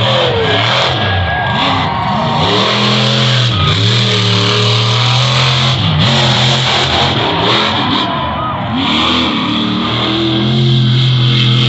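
Monster truck engine running hard at high revs, its pitch dipping and climbing again a couple of times as the throttle is lifted and reapplied.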